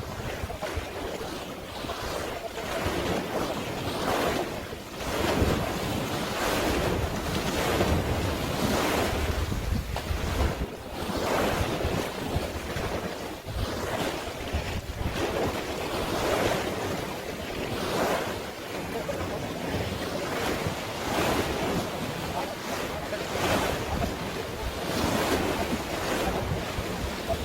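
Sea waves and water washing in repeated swells every second or two, with wind buffeting the microphone.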